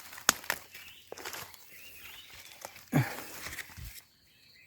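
Close rustling and handling noise with a run of sharp clicks, the loudest about a third of a second in, and a short low sound near three seconds in.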